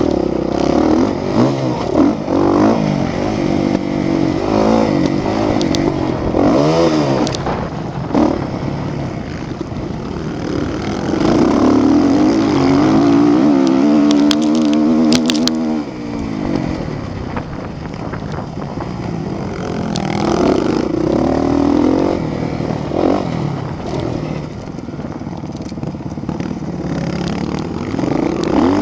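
Motocross motorcycles running on the track, their engines revving up and down with the throttle. One bike comes loudest about halfway through, its pitch then falling away.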